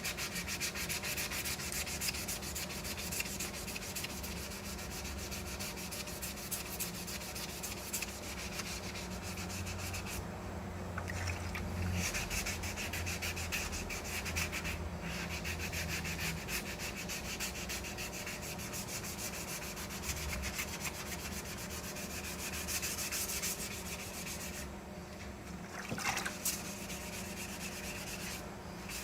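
Hand sanding primer over a fiberglass repair with soaked 320-grit sandpaper wrapped around a soft pad: quick back-and-forth rubbing strokes, with a couple of short pauses, about ten seconds in and again near the end.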